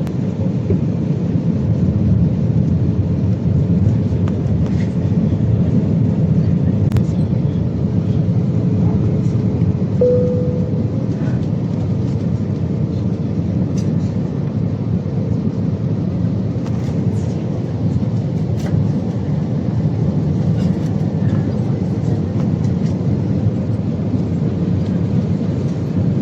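Airbus A320 cabin noise: a steady rush of airflow and engine hum heard from a passenger seat, with a faint steady tone in it that swells briefly about ten seconds in.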